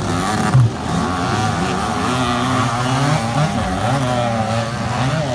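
Motocross dirt bike engines racing, their buzzing pitch rising and falling as the riders work the throttle.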